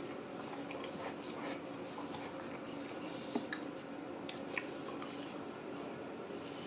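A person chewing a mouthful of a soft Chipotle sofritas bowl, with a few faint clicks, over a steady low room hum.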